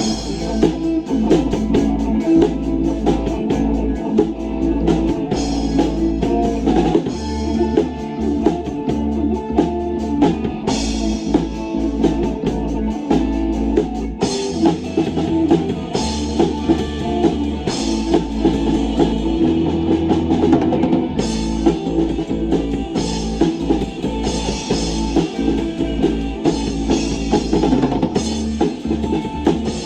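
Rock band playing live, drum kit, bass guitar and clean undistorted electric guitar all coming in together at the very start, with a steady beat and a stepping bass line.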